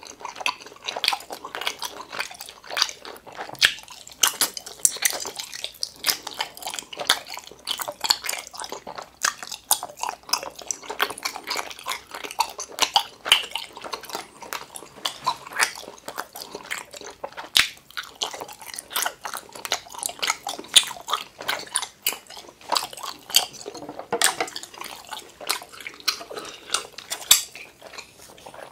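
Close-miked chewing of soft gummy jelly: a dense, uneven stream of quick wet mouth clicks and smacks.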